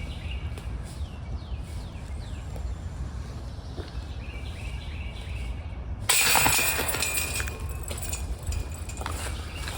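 Wind rumbling on the microphone, with birds chirping in the background and a sudden loud noise about six seconds in.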